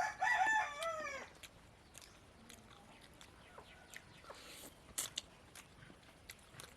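An animal's call lasting about a second at the start, falling in pitch at its end, then scattered small clicks and crunches of people eating and chewing poori and chicken.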